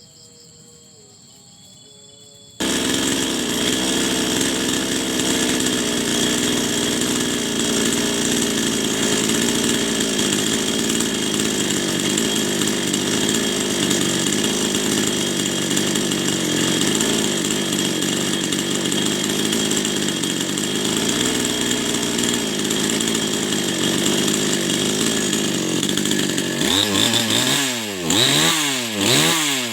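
Small motorcycle engine running steadily, fed by the carburettor being tuned; it cuts in abruptly about two and a half seconds in. Near the end the sound sweeps repeatedly up and down in pitch.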